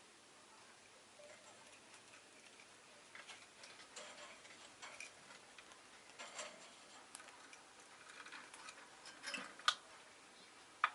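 Rosy-faced lovebirds making faint, scattered clicks and taps, with two sharper clicks near the end.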